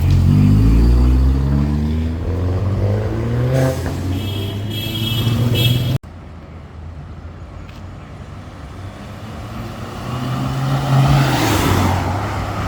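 A car accelerating past, its engine note rising in pitch for a few seconds. After an abrupt cut about halfway through, another car approaches and passes with a rising engine note.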